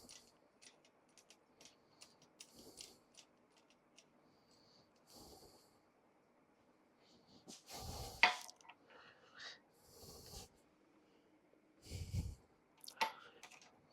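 Steel clamping hardware being handled and set on a machine table: scattered light metal clicks, a louder clank with a brief squeak about eight seconds in, and a dull knock a few seconds later, with soft breaths between.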